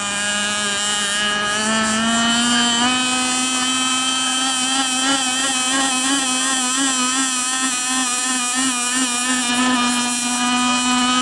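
Two-stroke gas engine of a 58-inch RC catamaran running flat out, a steady high-pitched whine that steps up a little about three seconds in and wavers in pitch through the middle stretch.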